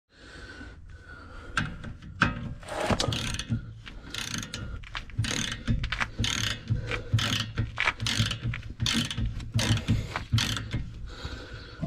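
Socket ratchet clicking in quick repeated strokes, about two to three a second, as a bolt is wound out.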